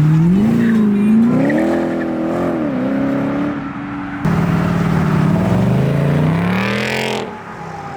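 A car engine revving hard under acceleration, its pitch climbing and holding. After a sudden break about four seconds in, a second climb cuts off shortly before the end.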